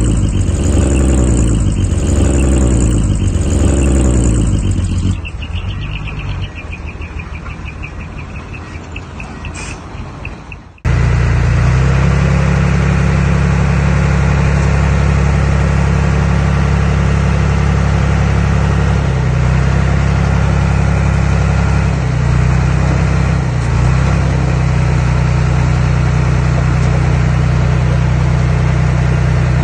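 Earthmoving machine's diesel engine running. The pitch rises again and again, about once a second, then drops away quieter. About eleven seconds in there is a sudden cut to a steady, even engine drone.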